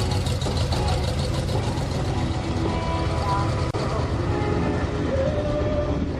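A vehicle engine idling with a low, steady rumble, with voices and music mixed in.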